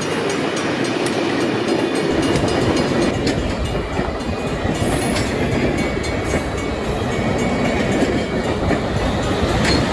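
A train running on the rails: a steady rumble with wheel clatter, a deeper rumble coming in about two seconds in.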